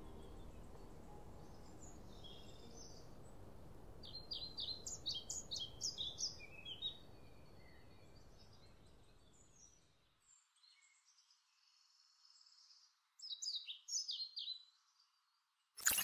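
A small songbird singing in two bursts of quick, high, chirping notes, over a faint steady background hiss that fades out about ten seconds in. A sharp click comes right at the end.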